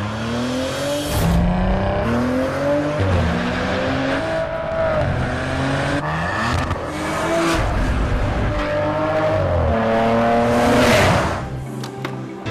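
Maserati Ghibli's twin-turbo V6 accelerating hard. Its pitch climbs in repeated sweeps and drops back at each upshift. Near the end comes a loud rushing sweep, and then the engine sound cuts off sharply.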